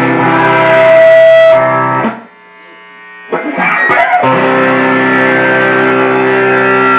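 Electric guitar playing ringing, sustained chords through an amplifier. It stops about two seconds in and comes back a second later.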